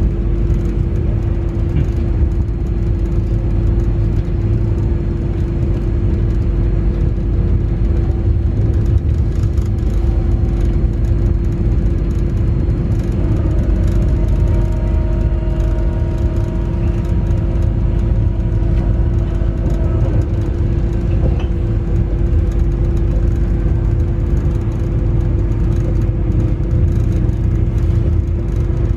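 Newag Impuls 2 (31WEba) electric multiple unit running between stations, heard from inside the passenger car: a steady rumble of wheels and running gear with a constant hum over it.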